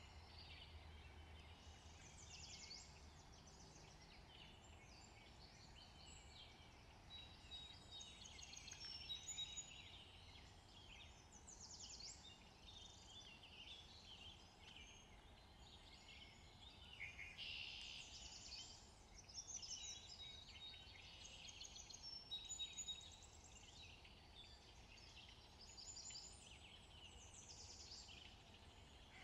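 Faint background birdsong: many small birds chirping and trilling throughout, over a low steady hum.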